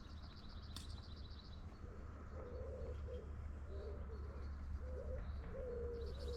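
A dove cooing in a run of low, wavering phrases that begin a couple of seconds in. A rapid high chirping trill comes at the start and again near the end, over a steady low rumble.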